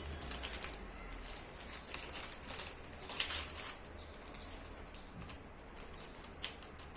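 Small paper sachets of baking powder crinkling and rustling as they are handled and emptied, with scattered light clicks and a louder rustle about three seconds in.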